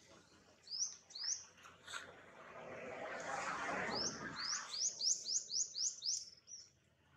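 A bird calling in short, high chirps that sweep upward: two near the start, then a quick run of about eight, roughly four a second, in the second half. A soft swell of noise rises and fades in between.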